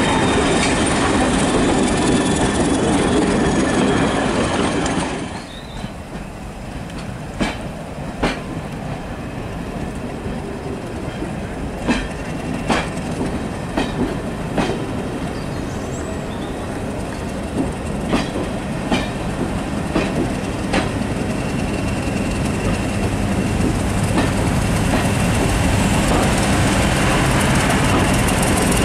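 Passenger coaches rolling past close by with a faint high wheel squeal. Then, more quietly, coaches run slowly past a platform, wheels clicking over rail joints at irregular intervals. In the last few seconds the diesel engine of the British Rail Class 31 locomotive, an English Electric 12SVT, grows louder as it draws level.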